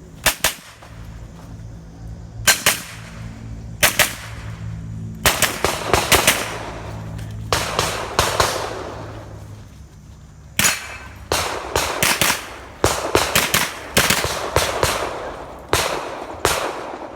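Rapid shooting from a .22 rimfire mini-rifle: about two dozen sharp shots, mostly in quick pairs and runs of three or four a fraction of a second apart, with short gaps between strings as the shooter moves between targets. Each shot is followed by a brief echo.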